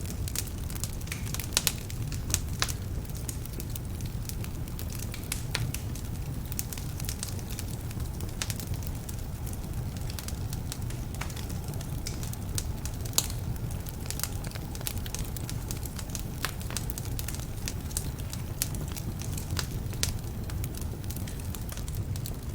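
Wood fire burning in a fireplace, some of its logs damp: a steady low rumble of flame under constant irregular crackling, with a few louder pops, two of them about two seconds in and one near the middle.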